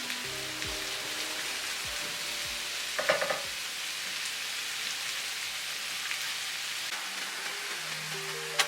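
Mushrooms frying in butter in a pan, a steady sizzle, with a brief clatter of a utensil against the pan about three seconds in.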